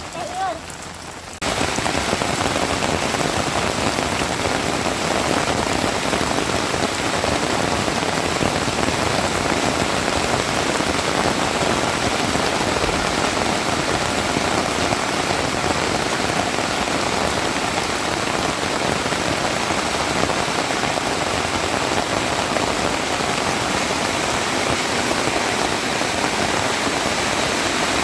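Heavy rain falling steadily, a dense even hiss of drops on surfaces that jumps much louder about a second and a half in.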